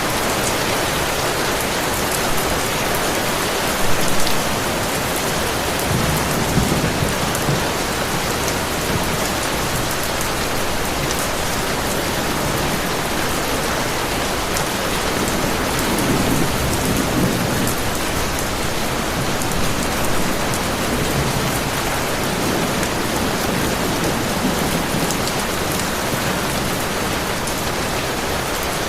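Heavy rain falling steadily, with distant thunder rumbling low three times. A short sharp pop stands out about four seconds in.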